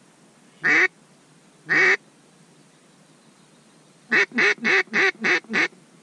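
Mallard-style quacking: two single loud quacks about a second apart, then, after a pause, a quick run of six quacks at about four a second.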